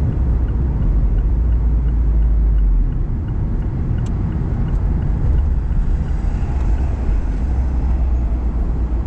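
Fiat 124 Spider Abarth's turbocharged four-cylinder engine and road noise heard from inside the cabin as a steady low rumble. It eases off about three seconds in as the car slows to a stop, with a faint even ticking over it early on.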